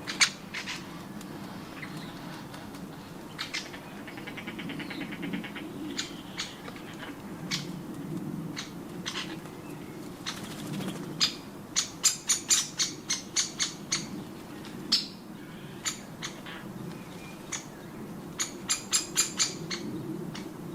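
A bird pecking hard at nuts: single sharp taps, then two quick runs of knocks about four to five a second, one in the middle and one near the end, over a steady low hum.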